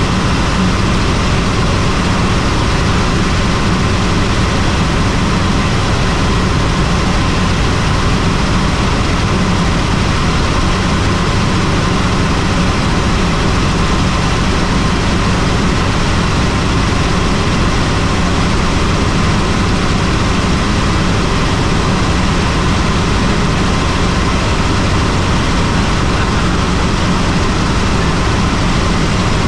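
Helicopter in flight: a steady, loud drone of engine and rotor, with a faint high whine held throughout.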